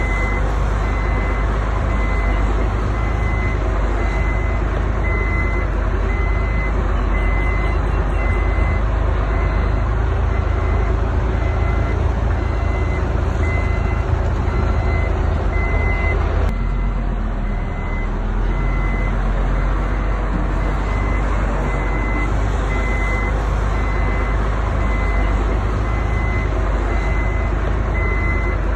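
Heavy diesel machinery engine running steadily, with a reversing alarm sounding regular high beeps throughout. The sound changes abruptly a little past halfway through.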